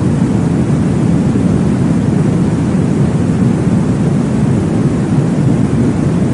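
Steady, deep whooshing noise from a baby-sleep white-noise track, heavy in the low end. It is meant to recreate the whoosh of blood flow inside the womb. It runs evenly, with no distinct beats or events.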